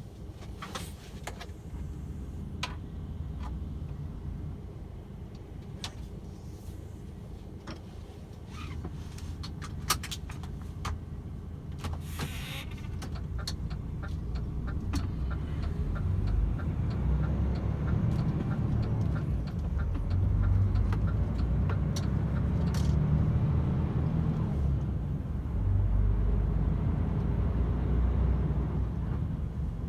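DAF XF 510 truck's diesel engine running, a low rumble that grows steadily louder through the second half as the truck gets under way. Scattered clicks and knocks in the first half, and a run of quick, even ticks about midway.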